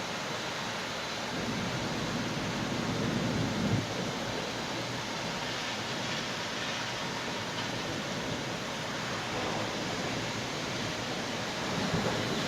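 Steady rain hiss, with a low rumble of thunder swelling a couple of seconds in and fading out about four seconds in.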